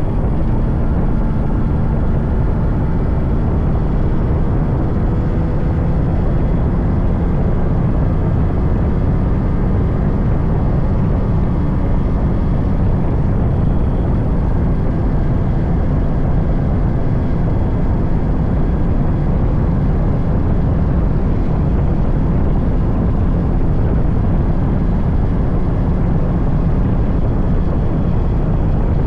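Yamaha RX100's 98cc air-cooled two-stroke single-cylinder engine running while the bike is ridden at a steady pace, the level staying even throughout.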